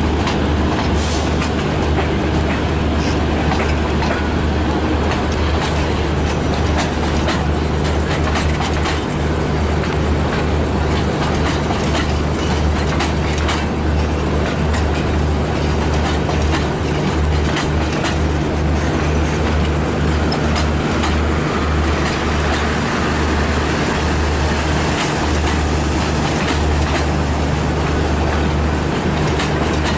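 Passenger train coaches rolling past close by: a steady low rumble with many sharp clacks from the wheels over the rail joints.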